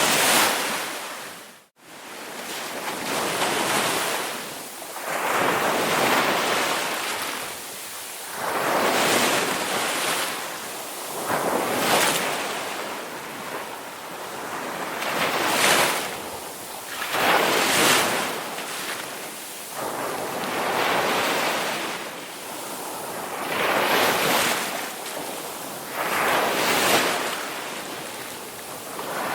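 Ocean surf: waves breaking and washing in, swelling and fading every two to three seconds, with a brief cut-out about two seconds in.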